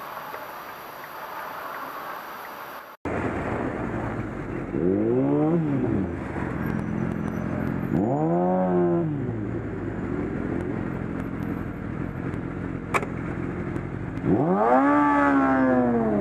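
Steady road noise, then after an abrupt cut a vehicle engine hums and revs up and back down three times, with a single sharp click in between.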